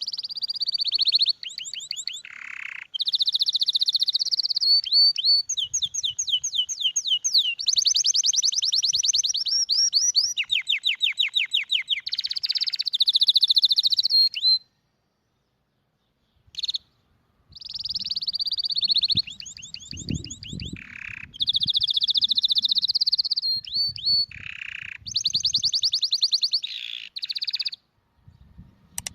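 Canary singing a long song of rapid trills, each phrase repeating one note many times a second and changing pitch from phrase to phrase. The song breaks off for a couple of seconds about halfway through, then resumes.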